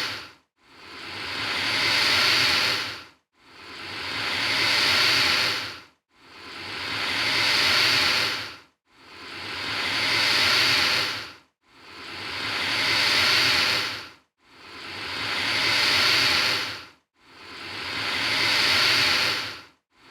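Alligator hissing in a repeated cycle: each breathy hiss swells over about two seconds and then cuts off abruptly, recurring about every 2.7 seconds, seven times over, in identical form.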